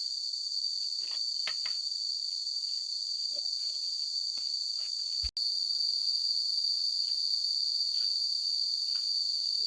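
Steady, high-pitched chorus of insects chirring, with faint scattered taps and rustles; the sound cuts out for an instant about five seconds in.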